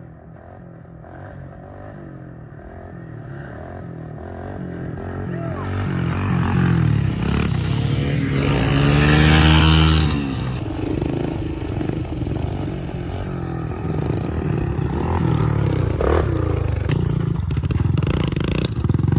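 Small pit bike engines running. One bike grows steadily louder as it comes up, passes close about nine to ten seconds in with its pitch dropping as it goes by, and engine noise carries on after it.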